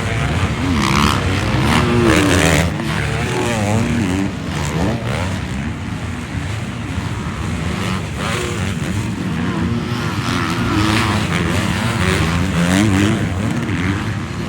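A pack of 450 motocross bikes racing round a supercross track, several engines revving up and down at once, the pitch rising and falling over and over as the riders get on and off the throttle.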